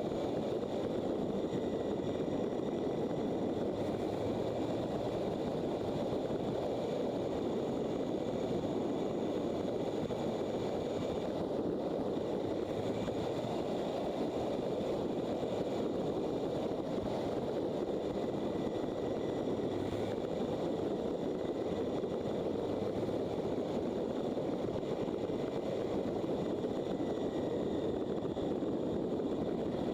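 Motorcycle running at a steady cruising speed, its engine under a continuous rush of wind and road noise.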